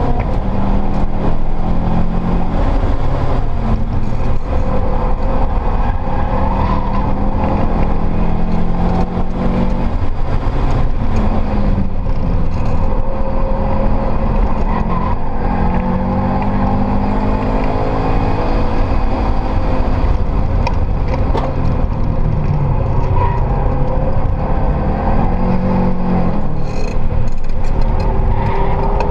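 Subaru WRX STI's built EJ turbocharged flat-four engine under hard track driving, heard from inside the cabin. The revs repeatedly climb and drop with the gear changes and corners, over steady road and tyre noise.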